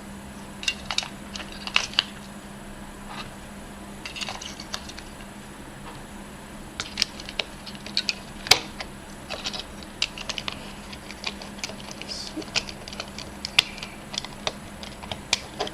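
AA batteries being handled and fitted into a small plastic battery compartment: scattered light clicks and taps of the cells against plastic.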